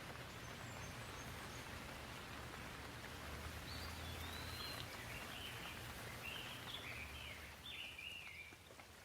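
Gentle rain falling steadily as a soft, even hiss over a low rumble. From about three and a half seconds in, a bird calls in a run of short chirping notes.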